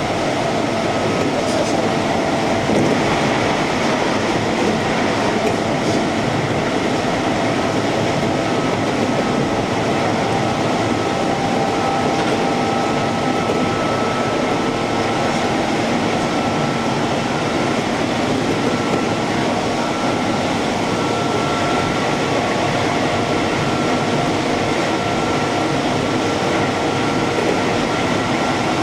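Keihan electric train running steadily, heard from inside the front car: an even rumble of wheels on rail with a few faint steady high tones above it.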